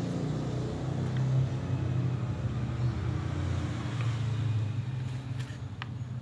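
Steady low mechanical hum of a running motor, with a few faint clicks.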